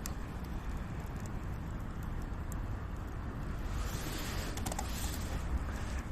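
Wind buffeting the microphone, a steady low rumble, with a few faint sharp clicks scattered through it.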